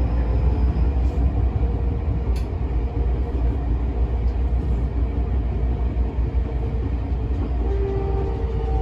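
Running noise inside a Tokyo Metro 10000 series train: a steady low rumble of wheels on rail with faint motor tones. There is a single sharp tick about two seconds in, and a few clearer steady tones come in near the end.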